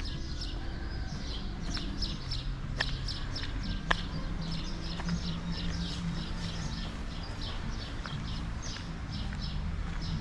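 Small birds chirping in quick, repeated short notes over a low steady hum, with two sharp clicks about three and four seconds in.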